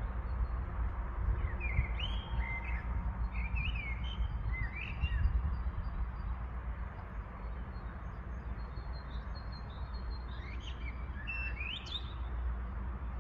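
Birds chirping in short, gliding calls, in two spells: from about one and a half to five seconds in, and again from about ten to twelve seconds in. A steady low rumble runs underneath.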